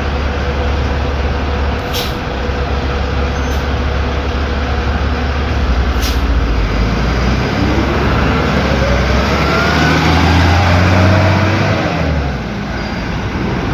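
Cummins ISB 6.7 diesel engine of an Agrale MT17 bus running with a steady low drone. Its pitch rises in the middle as it revs up, then eases off near the end. Two short hisses come about two and six seconds in.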